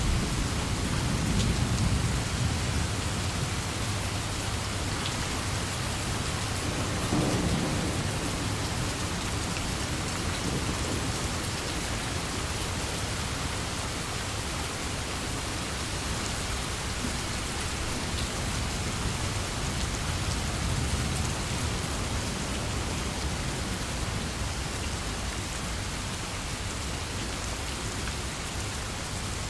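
Steady heavy rain, with low rumbles of thunder rolling in near the start and again about seven seconds in.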